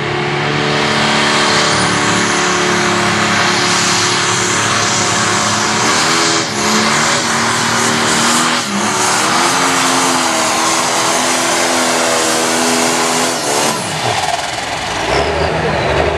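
Light Pro Stock pulling tractor's diesel engine running at full throttle under load, with a high whistle over it. Its pitch dips briefly twice as the load drags it down, and near the end the throttle comes off and the engine winds down.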